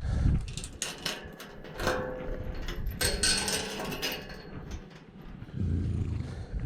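A run of clattering knocks and clanks of hard objects, with a low thud at the start and another near the end.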